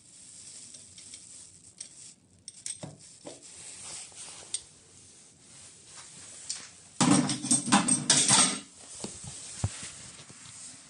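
Metal faucet parts and tools being handled, with light clinks and scrapes and a louder clattering stretch of knocks starting about seven seconds in that lasts under two seconds.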